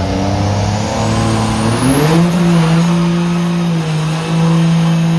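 Truck engine revving: it runs steadily, climbs in pitch about two seconds in, then holds at high revs. A thin high whistle rises with it.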